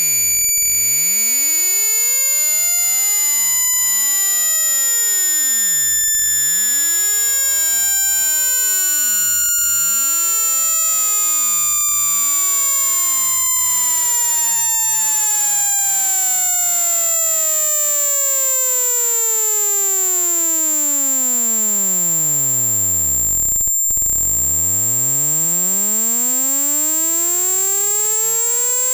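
Electronic sine-tone sweep for clearing a phone speaker: one pure tone slides slowly down in pitch from high to a deep low rumble over about twenty seconds. It cuts out for a moment near the end, then starts climbing again. A steady piercing high whistle sounds the whole time.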